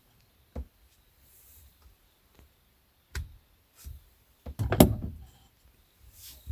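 A few scattered knocks and clunks of hard objects, the loudest a heavy thump with a short rattle nearly five seconds in.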